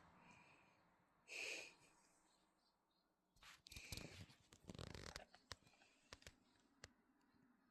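Faint crunching and rustling of guinea pigs eating: a short burst about a second and a half in, a cluster of quick crunches and rustles midway, then a few scattered single clicks.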